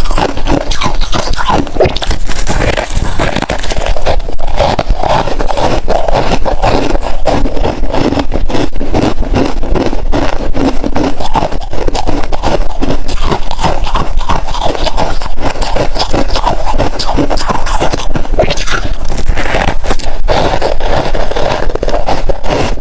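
Close-miked crunching and chewing of hard freezer ice: a dense, unbroken run of loud cracks and crunches as the ice is bitten and ground between the teeth.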